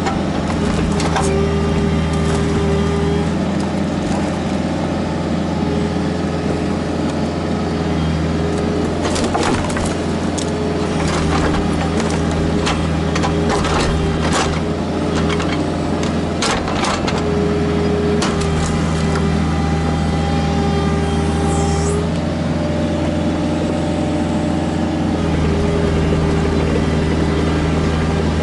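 Kubota KX121-3 mini excavator's diesel engine running steadily under working load, with a higher hydraulic whine that comes and goes as the controls are worked. Between about 9 and 17 seconds a run of sharp knocks and cracks comes from the bucket and thumb striking stumps, roots and stone.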